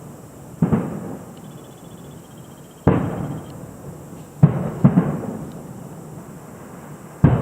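Distant aerial fireworks shells bursting: five deep booms, each followed by a rolling echo that fades over about a second, with two coming close together about halfway through.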